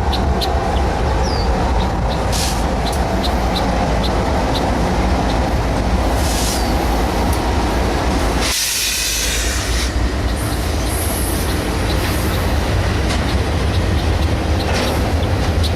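Freight train rolling past: a steady rumble with wheels clicking over rail joints, and a brief rush of hiss about halfway through.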